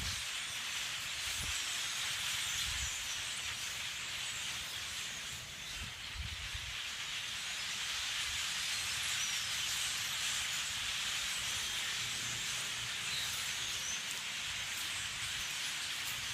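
A large flock of blackbirds calling all at once, a dense, continuous chatter of many overlapping chirps that blends into a hiss-like din.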